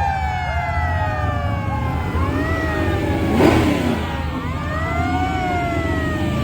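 Several fire-truck sirens wailing at once, their pitches sliding down and swinging back up over a low engine rumble. A louder surge comes about three and a half seconds in and again near the end.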